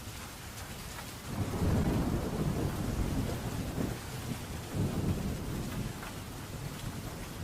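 Steady rain with a roll of thunder that rises about a second in, rumbles in two swells and dies away near the end.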